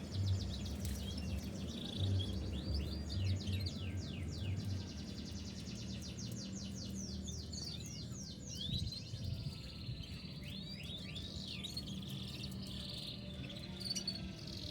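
Domestic canary singing in long fast trills of rapidly repeated high notes, with a low background hum underneath.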